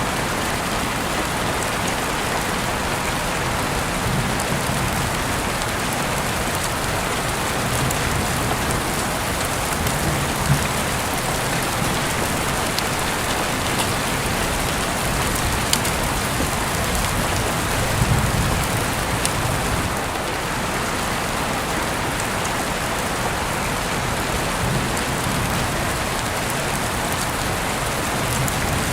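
Steady rain falling, an even hiss with a few sharp ticks, and low rumbles swelling now and then, the loudest about 18 seconds in.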